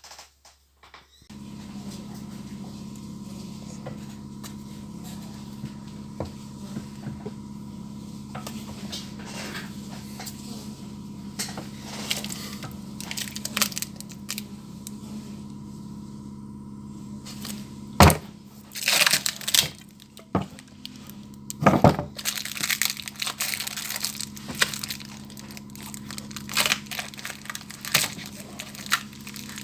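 A steady mechanical hum with many clicks, knocks and crackling on top, which grow busier in the second half. Two loud sharp knocks stand out, about 18 and 22 seconds in.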